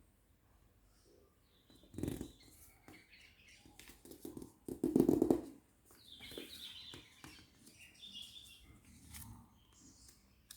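A sheet of paper being handled and folded: irregular rustles and crinkles, loudest about two seconds in and again around five seconds in.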